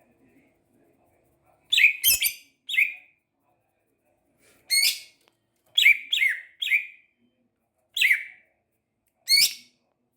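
Cucak ijo (green leafbird) calling: about nine short, loud notes in irregular groups of one to three, each falling quickly in pitch, with pauses of a second or more between groups.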